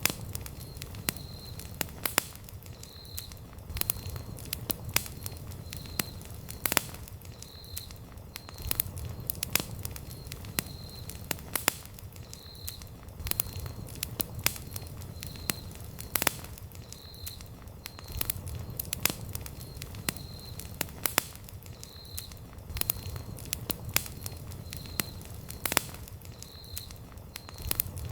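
Wood campfire crackling: frequent sharp pops and snaps at irregular intervals over the low, steady rumble of the burning flames.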